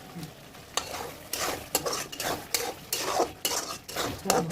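A utensil stirring and scraping spices in a kadhai over the sizzle of hot mustard oil, in quick strokes about three a second that start about a second in.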